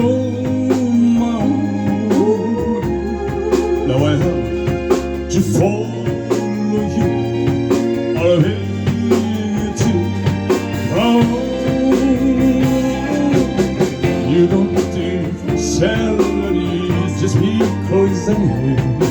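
Live band music, an instrumental passage of a slow song between sung lines, with a sustained keyboard or organ bed under a bending lead melody.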